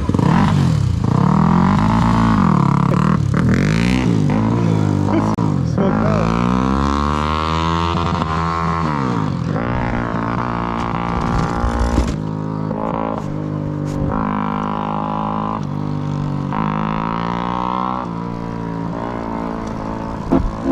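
Single-cylinder four-stroke dual-sport motorcycle engine under way, its revs rising and falling several times, then running steadier with short breaks as it shifts.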